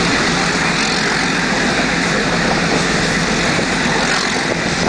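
Steady running noise of the Nilgiri Mountain Railway toy train heard from inside a moving carriage: an even rumble and rush of wheels on track and air past the open window.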